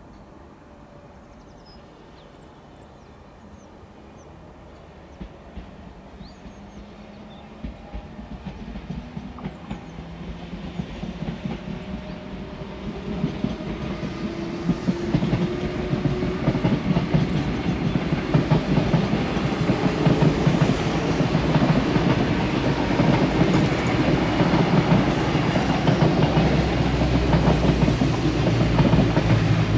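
Double-deck electric passenger train approaching and crossing a viaduct. Its rumble and wheel-on-rail clatter grow steadily louder, and a thin whine rises in pitch partway through.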